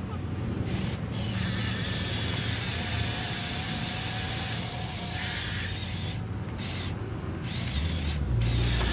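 Remote-control toy dump truck running: a steady motor hum with a few held whining tones that shift in pitch. The hum grows louder near the end.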